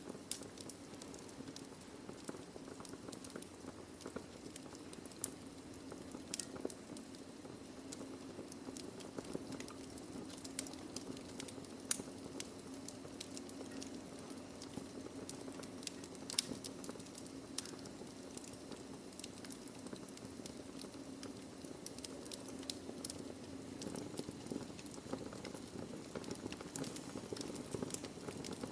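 Wood fire burning in a fireplace: logs crackling with frequent irregular pops over a low steady rushing hiss, the sharpest pop about twelve seconds in.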